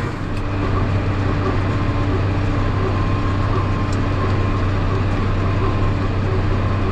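Tractor engine running steadily under load while baling hay: a constant low drone with a faint steady whine above it.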